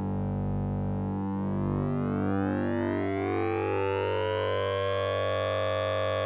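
Synthesized oscillator-sync and ring-modulation drone from the Orange Vocoder plugin: a steady low hum under a metallic band of overtones that sweeps down, then rises slowly again from about two seconds in, like a slow siren.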